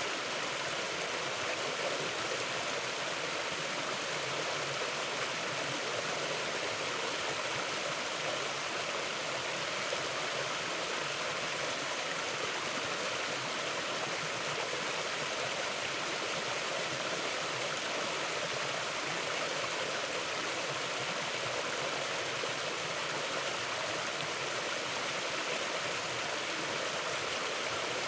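Mountain river flowing: a steady, even rush of water with no change through the whole stretch.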